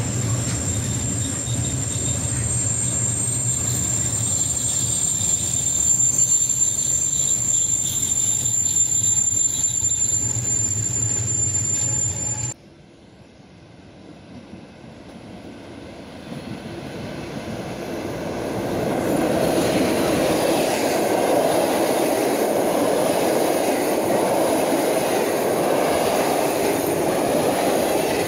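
A freight train of tank wagons rolls slowly past as it draws to a stop, with a steady low rumble and a steady high-pitched squeal, until a sudden cut about twelve seconds in. An electric-hauled passenger train then approaches, growing louder over several seconds, and its coaches run past with a steady rumble.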